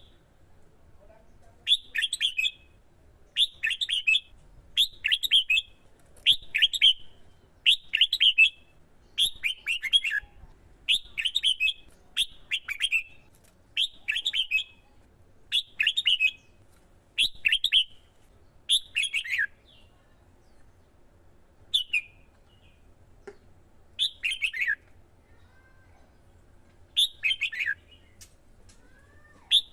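Red-whiskered bulbul singing short, clear phrases of quick falling notes, over and over at about one every one and a half seconds, then more sparsely with longer gaps in the last third.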